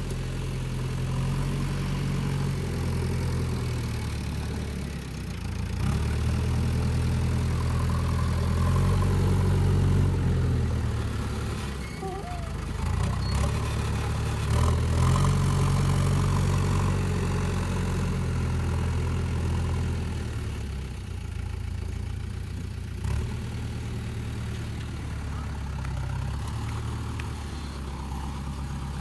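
Diesel engine of a JCB 3DX backhoe loader running. It is revved up twice for several seconds each time, then drops back toward idle.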